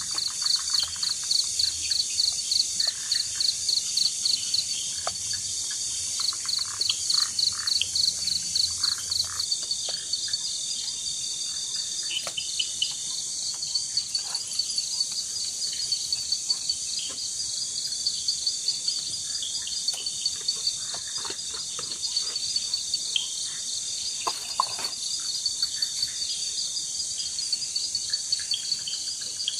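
Night insect chorus in the forest: crickets chirping in rapid pulsed runs over a steady high-pitched insect buzz.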